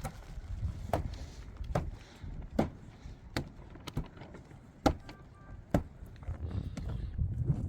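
A series of sharp knocks, about one a second, like a hand tool striking something hard again and again, over a steady low rumble.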